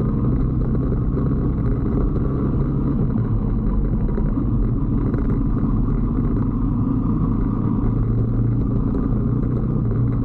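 A 125cc Brixton motorbike engine running steadily while the bike is ridden along at an even speed, with no revving up or down.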